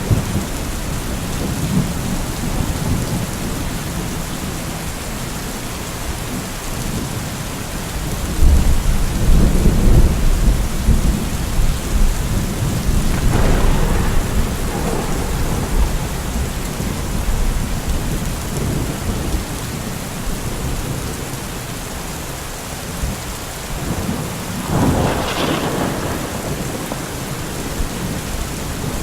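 Steady rain falling, with thunder rolling over it: a deep, loud rumble about a third of the way in, and sharper peals about halfway through and again near the end.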